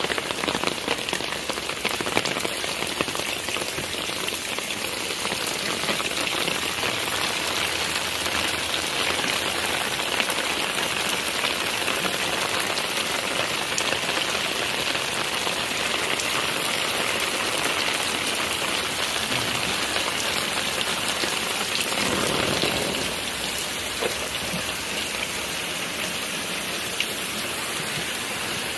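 Steady rain falling and pattering on the ground and surrounding surfaces, a little quieter from about three-quarters of the way through.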